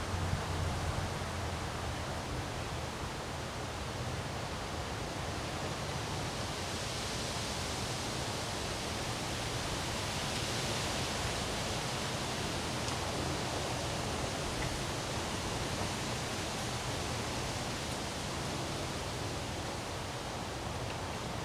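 Windstorm wind rushing steadily, swelling into a stronger, hissier gust around the middle.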